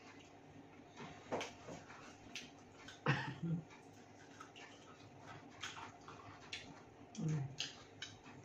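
Eating sounds: wet chewing and biting, with scattered sharp clicks. Two short low voiced murmurs come about three and seven seconds in.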